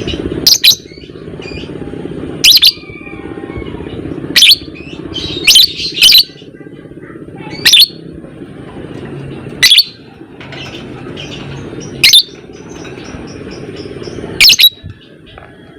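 Lovebird giving short, shrill chirps, about one every one to two seconds, over a steady low background rumble.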